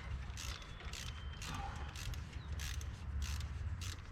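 Hand socket ratchet worked in short strokes on the starter solenoid's nuts, each stroke a quick burst of pawl clicks, about two a second and unevenly spaced, over a low steady hum.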